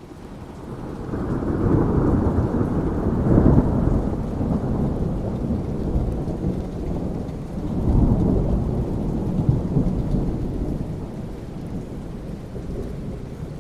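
Rolling thunder over steady rain. The rumble builds at the start, is loudest from about two to four seconds in, swells again around eight seconds, and then slowly dies away while the rain continues.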